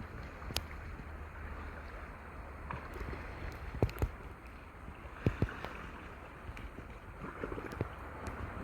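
Water splashing and lapping around a kayak, with a few sharp knocks about half a second in, around four seconds in and just past five seconds, and wind rumbling on the microphone.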